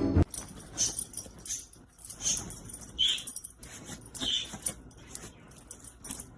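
Dog whimpering in a series of short, high-pitched whines.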